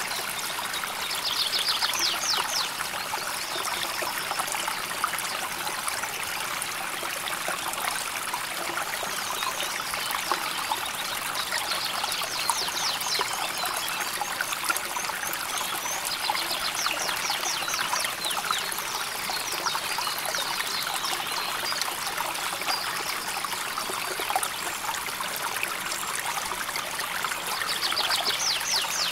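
A river flowing steadily over shallows, a continuous trickling and rushing of water. A high, rapid trill cuts in over the water a few times.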